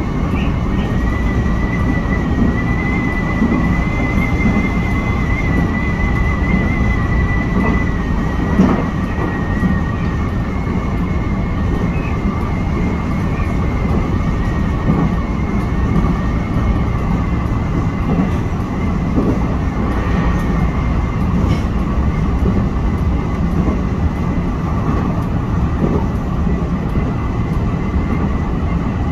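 Nankai electric express train running at speed, heard from inside the front car: a steady rumble of wheels on rail, with a thin, wavering high whine through roughly the first third and a few short knocks, the loudest about nine seconds in.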